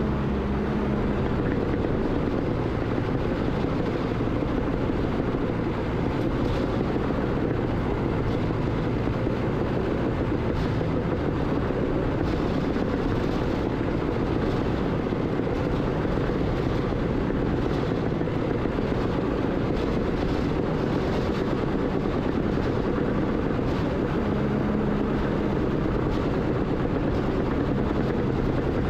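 Heavy earthmoving machine's engine running steadily under constant load, a loud even rumble with no revving.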